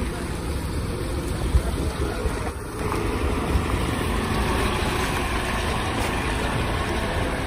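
Scania Alexander Dennis Enviro 400 double-decker bus running, heard from inside: a steady low engine and road noise that grows a little louder about three seconds in.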